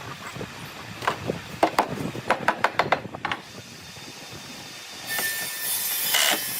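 Workshop sounds: a quick run of about ten sharp wooden knocks and clacks, then, about five seconds in, a power tool starts a steady rushing noise.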